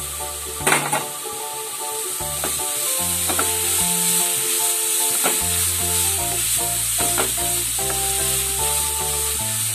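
Grated carrot sizzling in hot ghee in a nonstick pan as it is sautéed, with the scrape and knock of a wooden spatula stirring it; the loudest knock comes about a second in. Background music with held notes plays underneath.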